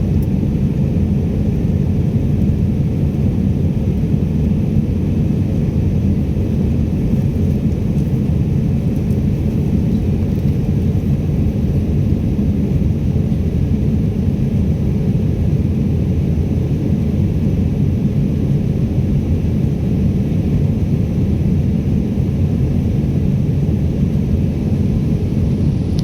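Airliner cabin noise: a steady low rumble of the engines and rushing air, heard from inside the passenger cabin.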